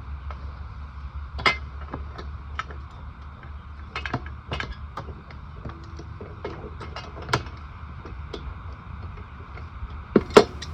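Scattered clicks and light knocks of hand tools and plastic and metal mower parts being handled during disassembly, over a steady low hum. Two sharper clicks come close together near the end.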